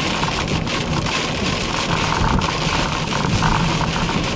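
Steady noise inside a moving car driving through a thunderstorm: road and engine noise mixed with rain on the car.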